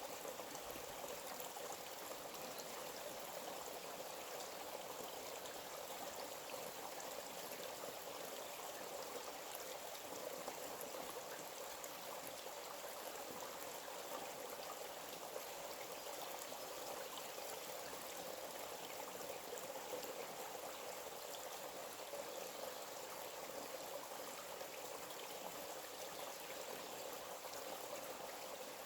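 Stream of water flowing with a steady rushing sound, unchanging throughout.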